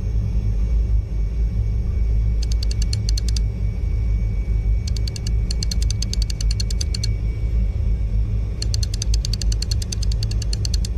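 Rapid clicking, about ten clicks a second, in three runs over a steady low rumble.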